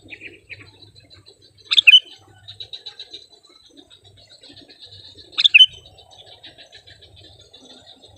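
Sooty-headed bulbul giving two loud, short calls, each of two quick notes, about two and four seconds apart. A faint high trill and small chirps carry on behind.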